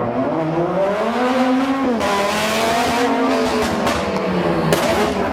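A car engine revving, its pitch rising and falling several times, with a rush of exhaust and road noise building from about two seconds in.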